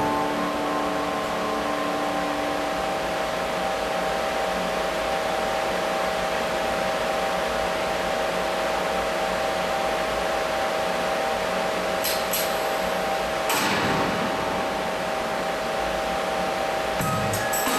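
Steady machine whir of moving air with a constant droning hum, like a fan or blower running. Brief clicks come about twelve seconds in, and a short burst of hiss follows a second or so later.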